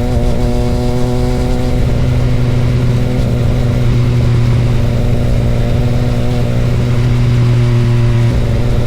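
Motorcycle engine running steadily at a constant pitch, holding the same speed with no rise or fall in revs.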